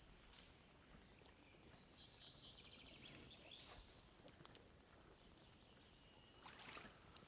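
Near silence, with a faint, fast bird trill about two seconds in and a few light clicks.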